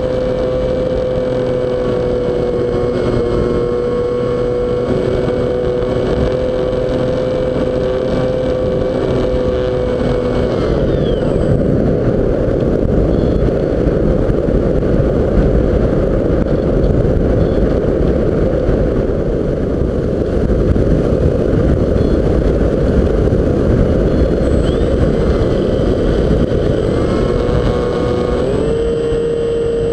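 RC model plane's motor running with a steady whine. About ten seconds in the motor drops away and heavy wind rush on the microphone takes over. Near the end the motor comes back, a little higher in pitch.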